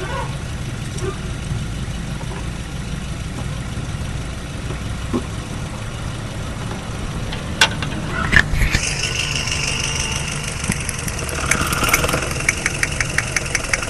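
Toyota GLi 1.3 petrol engine idling steadily; this engine misfires, which the mechanic puts down to faulty ignition coils. Two sharp knocks come about halfway through, then a high whine starts, with a quick run of ticks, about six a second, near the end.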